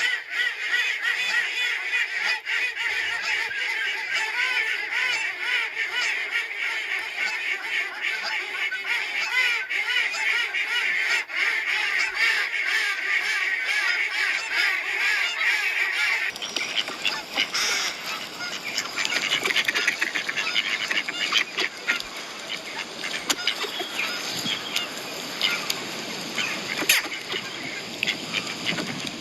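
A flock of domestic geese and ducks calling together, dense overlapping honks and quacks. About sixteen seconds in the sound changes abruptly to a noisier, harsher mix of calls.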